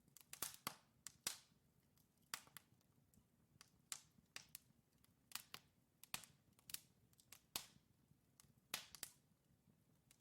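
Wood logs burning in a fireplace, crackling with irregular sharp pops and snaps, some in quick pairs, over a faint low rumble of the fire.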